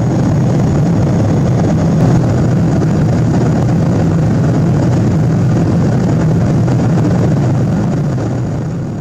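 Steady low rumble of a Boeing 777-200's cabin with the engines and airflow running, and a faint high whine over it. It eases down slightly near the end.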